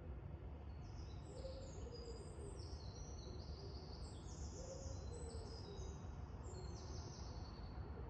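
Birds chirping in many short, high-pitched calls that overlap and step up and down in pitch, over a steady low background rumble.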